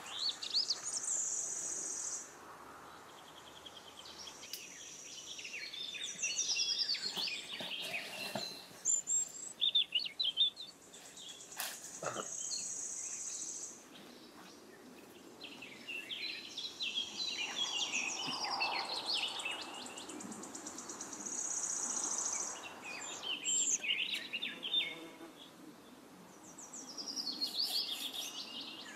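Several songbirds chirping and trilling, with repeated bursts of song and some longer high notes, and a single sharp click about halfway through.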